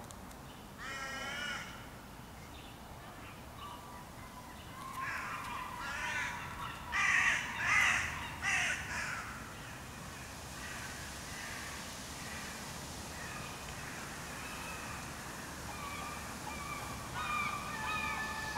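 Harsh bird calls: one call about a second in, then a run of several louder calls between about five and nine seconds in.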